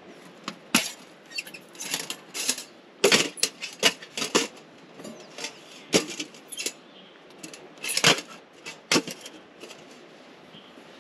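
Irregular clinks, clicks and knocks of hard objects being handled, coming in clusters with short pauses between them.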